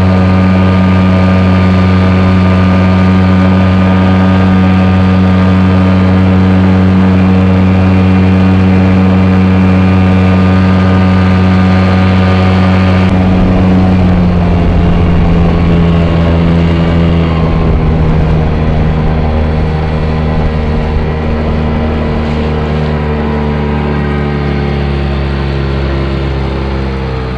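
A boat's engine running steadily and loudly, its pitch sliding slowly lower in the second half.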